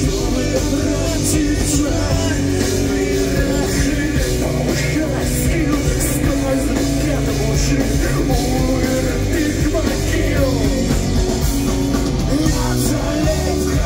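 A live punk rock band playing loudly through a club PA: drums with cymbal hits and electric guitars, with some singing over them.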